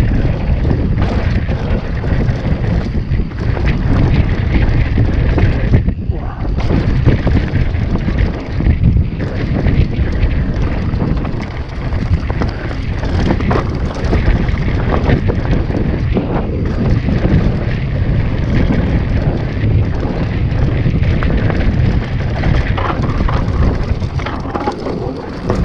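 Wind buffeting the microphone of a camera riding a downhill mountain bike at speed, with a dense low rumble and many small knocks and rattles from the bike over rough trail.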